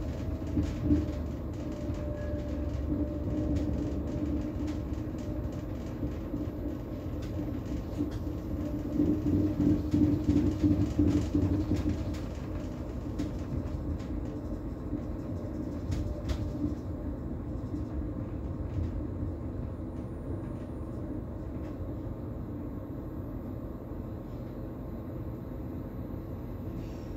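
Bombardier Twindexx double-deck electric train running on the line: a steady rumble of wheels on rail with a hum, scattered clicks, and a louder stretch of a few seconds about a third of the way in.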